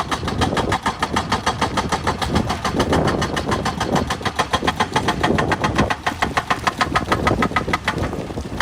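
Excavator at work: a rapid, regular hammering, about six strikes a second, over the running diesel engine. The hammering stops just before the end.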